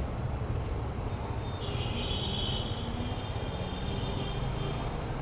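Steady low rumble of motor vehicle engines, with a high whine for a couple of seconds in the middle.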